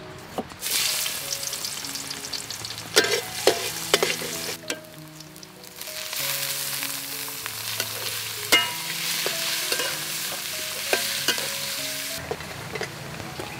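Minced garlic and then shrimp sizzling in oil in a steel wok, stirred with a metal spatula that clanks and scrapes against the pan now and then. The sizzling starts about a second in, breaks off briefly near the middle, and stops shortly before the end.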